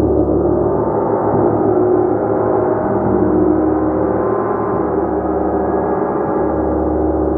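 Large gong played continuously, a dense sustained shimmer of many overlapping tones, with soft strokes renewing the low swell every second or so.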